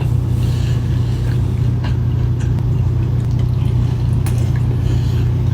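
Steady low drone of a car cabin, with a few faint clicks from someone chewing food.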